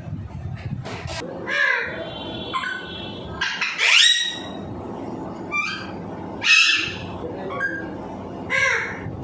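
Alexandrine parrot giving a series of harsh calls and squawks, about six in all, the loudest a rising call about four seconds in and another about six and a half seconds in.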